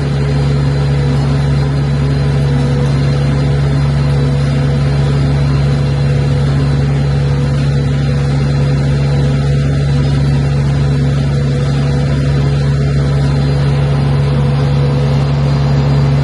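Steady low engine drone, holding one pitch with no change throughout.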